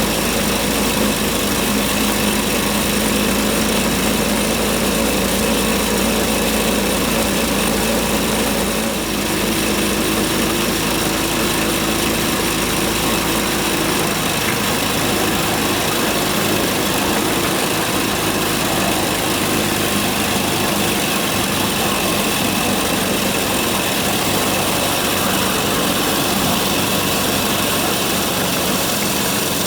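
Small petrol engine of a 7¼ inch gauge locomotive running steadily on a test run, its note shifting about nine seconds in. It runs without its former clunk, its drive repaired.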